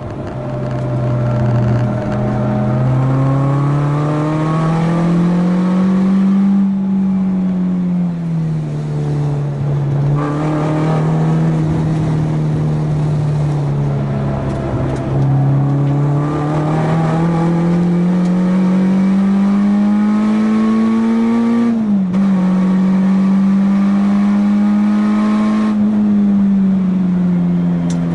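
Car engine running hard on a race track, its pitch climbing steadily for several seconds and then falling back, several times over, as the car accelerates, shifts gear and slows for corners.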